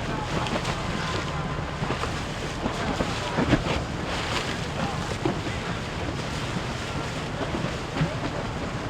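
Boat engines running with water and waves churning, and wind buffeting the microphone in short gusts.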